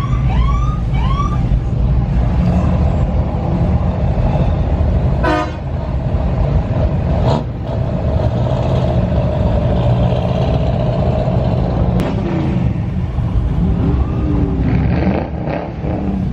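Loud, steady low rumble of car engines running, with short car horn honks about five and seven seconds in and a longer held horn tone around the middle.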